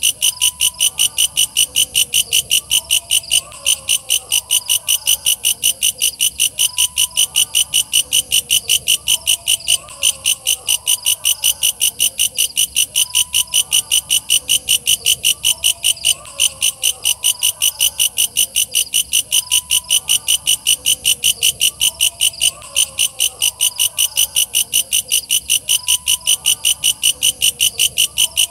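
Walang kecek katydid calling: a steady run of loud, high-pitched rasping chirps, about three a second, with a brief break every few seconds.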